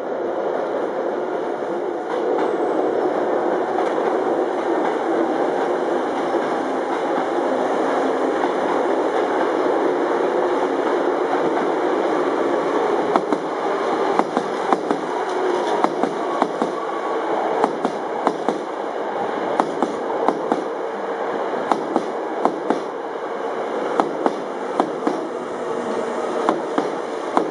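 Hankyu Railway electric train passing close by at low speed, with a steady running noise from its wheels and motors. From about halfway through, its wheels click irregularly over the track, about one or two clicks a second.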